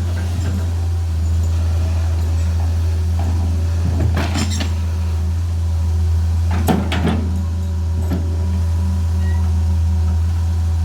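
Excavator's diesel engine idling steadily with a deep hum, with a few short metallic clanks about four and seven seconds in.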